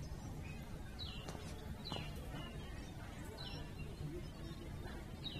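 A bird chirping: about four short, falling high chirps spaced a second or more apart, over faint steady outdoor background noise.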